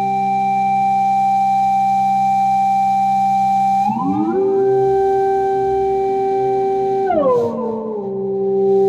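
A slow solo melody of long held notes on a sustaining instrument played over a steady backing track, sliding smoothly into a new note about four seconds in and sliding back down a little after seven seconds.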